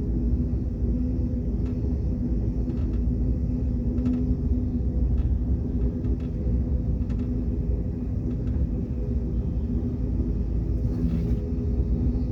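Train running steadily: a low rumble with a constant hum, and faint clicks about once a second.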